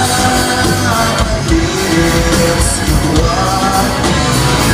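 Live rock band playing a chorus with a singer holding long sung notes over distorted guitar and drums.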